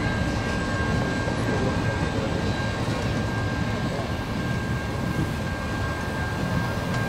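Steady rumble of a passing train, with a constant high whine running through it.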